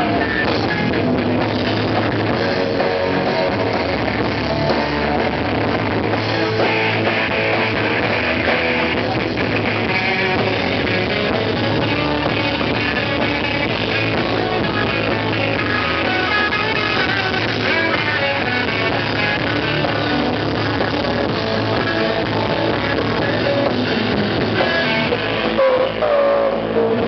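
Rock band playing an instrumental passage on electric guitar and drum kit, with no singing.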